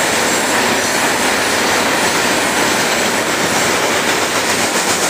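Freight train cars rolling past at a grade crossing: a loud, steady rush of wheel and rail noise.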